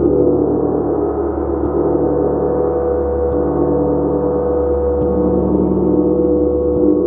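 Gong played continuously in a meditative session, a dense, sustained shimmering wash of many overlapping tones that swells without any clear break.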